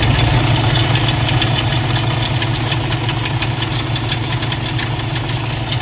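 Semi-truck diesel engine idling with a rapid, steady knocking from inside the motor. It is the sign of an internal fault that a mechanic traced to a broken fuel pump.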